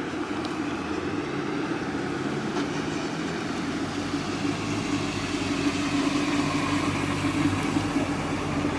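1963 Corvette's 327 small-block V8 running with a steady drone, getting somewhat louder from about halfway through.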